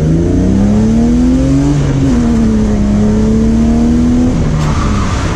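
BMW E36 engine accelerating hard: the revs climb, drop at a gear change about two seconds in, climb again more slowly, then fall away as the throttle lifts near the end.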